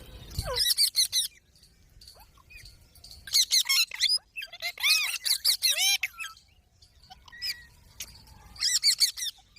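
Pet green parrot calling in about five bursts of rapid, shrill chirps and squawks, with short pauses between them.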